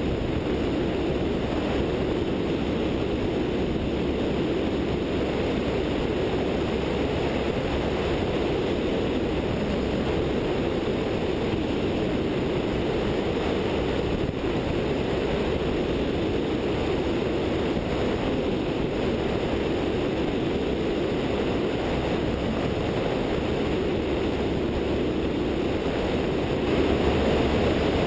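Steady drone of a light aircraft's 100-hp Continental O-200 engine and propeller in level flight, picked up by a wingtip-mounted camera together with the rush of wind. It grows slightly louder near the end.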